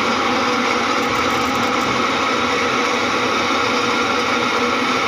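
Washing machine's electric motor switched on for a test run, giving a steady whirring hum with several fixed tones and no change in speed. The fault is one the owner then traces to a broken pulley.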